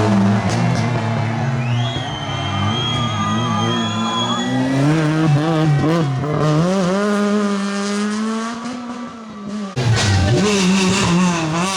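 Rally car engine revving hard, its pitch climbing and dropping through gear changes, with a high steady squeal for about two seconds near the start. The engine fades toward the end, then comes back suddenly loud.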